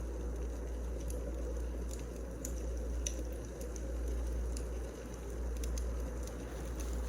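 Burning firewood crackling: scattered sharp pops and crackles over a steady low rumble.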